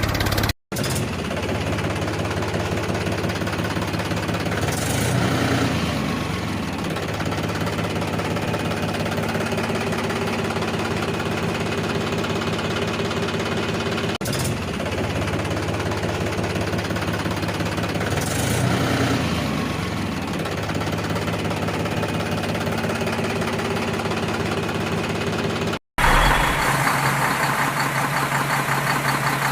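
A tractor-type engine running steadily at idle. The sound drops out abruptly twice, about half a second in and near the end, and after the second break it comes back louder and brighter.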